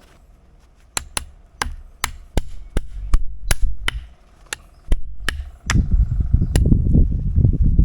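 Repeated sharp blows from a hand striking tool, about a dozen at two to three a second, like chopping or hammering. Near the end they give way to a dense, low, rough noise full of small knocks.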